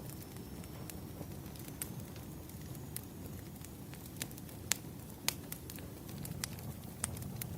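Wood fire burning: a steady low rumble of flames with scattered sharp crackles and pops, two louder pops a little past the middle.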